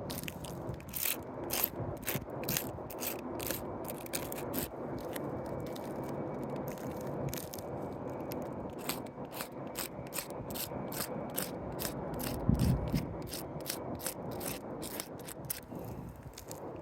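Asphalt roof shingles being worked by hand while they are unsealed and marked up: a long run of irregular sharp clicks and scrapes. One heavier thump comes about three-quarters of the way through.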